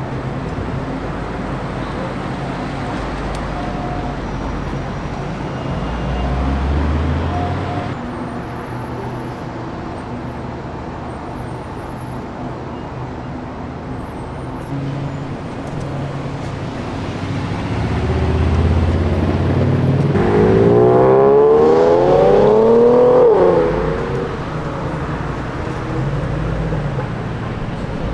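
Car engines running and moving slowly past at low revs. About two-thirds of the way through, one car's engine revs up, its pitch rising for about three seconds, and then drops off as the throttle is released. That rev is the loudest part.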